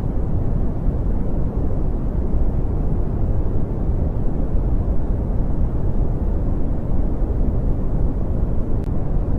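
Brown noise: a steady, deep rushing noise, heavy in the bass and dull at the top, that never changes.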